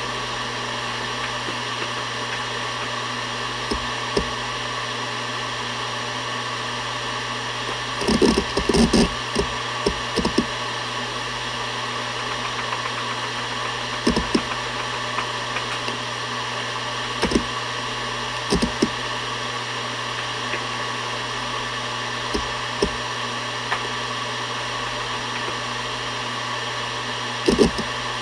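Seagate Barracuda ES.2 ST31000340NS 7200 rpm hard drive spinning with a steady hum and whir. Its heads seek in occasional short clicks, with a quick flurry of seeks about eight to ten seconds in.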